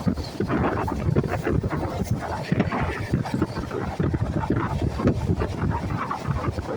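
A moving train's running noise: a dense rumble with irregular clatter, and wind buffeting the microphone.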